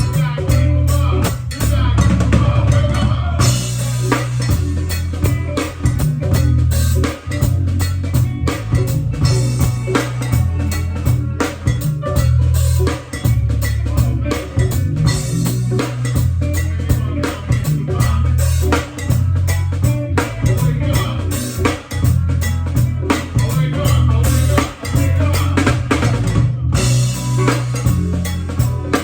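Band music with a full drum kit keeping a steady beat over a strong, moving bass line.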